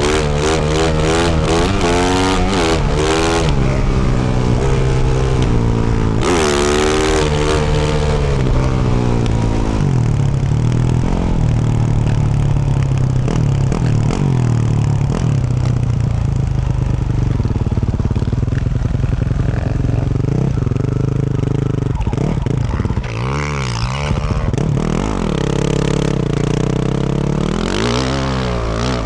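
2024 Yamaha YZ450F's single-cylinder four-stroke engine through a Yoshimura RS-12 exhaust, ridden off-road: the revs climb and drop again and again as the throttle is worked. It holds steadier through the middle, then gives quick blips of throttle near the end.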